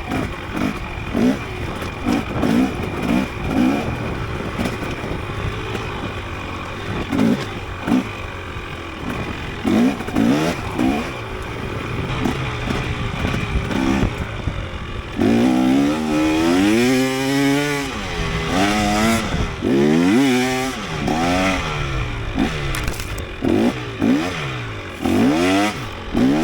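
Dirt bike engine being ridden on a trail: short, quick throttle blips through the first half, then from about halfway on, longer revs that climb and fall again and again.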